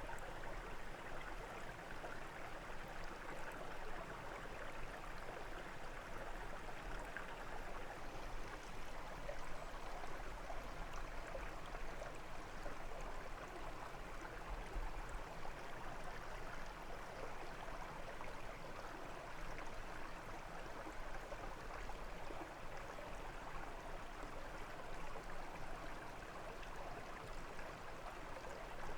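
Water of a brook flowing, a steady rushing and gurgling.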